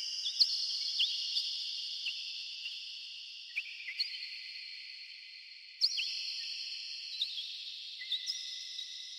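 Birds giving short, sharp chirps at irregular intervals in a heavily echoing forest. Each chirp leaves a long ringing echo, so their pitches hang on as a continuous high tone that slowly fades. A fresh cluster of chirps about six seconds in brings the level back up.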